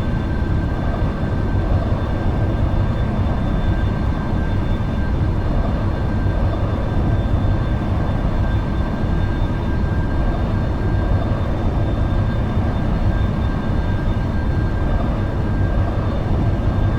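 Steady jet airliner engine noise, an even rumble with a faint high tone above it.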